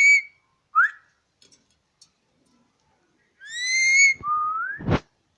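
Caged parrot whistling: a short rising chirp about a second in, then a longer two-part rising whistle near the end, followed by a single sharp knock.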